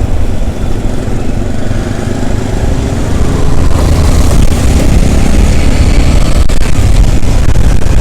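Motorcycle on the move in traffic: a steady engine and road rumble with a noisy low end, growing louder about three to four seconds in.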